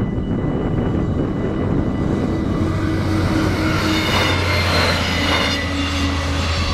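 Arriva Spurt (Stadler GTW) diesel railcar passing over a level crossing. A steady low engine hum sets in a few seconds in, and wheel and rail noise peaks past the middle as it goes by. The crossing's electronic bells keep ringing, and heavy wind buffets the microphone.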